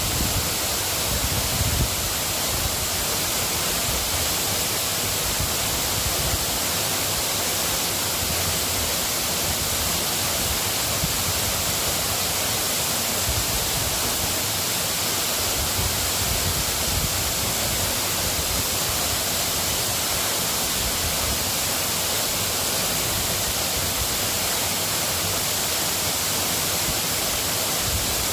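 Steady rain falling, an even hiss of drizzle that does not let up.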